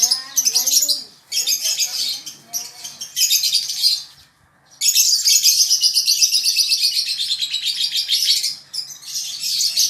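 Lovebird chicks chattering in rapid, high-pitched bursts, with a short pause a little after four seconds and then a long unbroken stretch of chatter.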